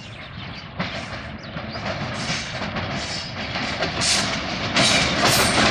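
Rupsha Express passenger train approaching, its running noise and wheel clatter growing steadily louder, with sharp knocks coming thicker toward the end.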